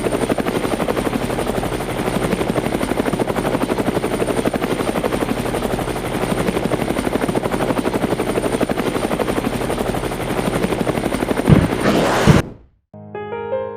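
Helicopter rotor chopping in a fast, even beat with a steady high whine, two louder thumps near the end, then cutting off suddenly. Piano music starts just after.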